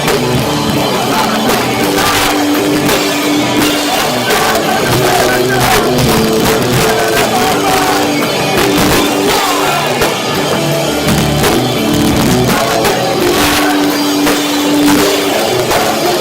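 Rock band playing loud live: distorted guitars holding sustained notes over constant drum hits. The recording is a cheap phone microphone's, overloaded and muddy.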